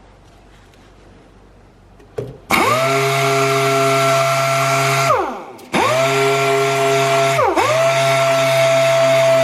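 A power sander smoothing primer. It starts about two seconds in, rising quickly to a steady high whine, winds down and starts again about halfway through, then dips for a moment and runs on.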